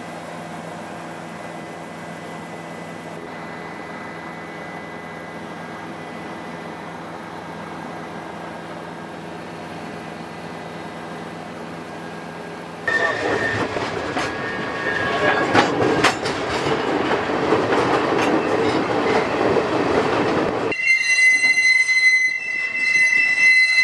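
Steam-hauled freight train. First a steady low hum, then, about 13 seconds in, a sudden change to loud rattling and clanking of the train rolling, with wheel squeal. Near the end, steady high-pitched tones.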